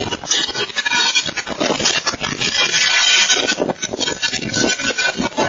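Strong wind blowing in uneven gusts, with constant rattling, clattering and scraping of loose objects.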